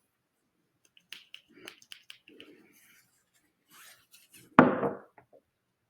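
A run of light, quick plastic clicks and taps from a small syringe being tapped and handled to clear air bubbles. A little after four and a half seconds comes one short, sudden burst of voice.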